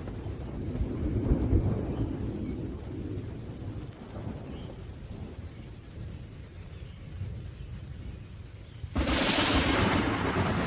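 Thunderstorm with steady rain: low rolling thunder that fades over the first few seconds, then a sudden loud crack of close thunder about nine seconds in.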